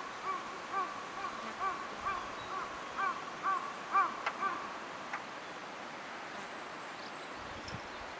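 A bird calling over and over outdoors: short, arched calls about two a second that grow louder and stop about halfway through, after which only a steady background hiss of open countryside remains.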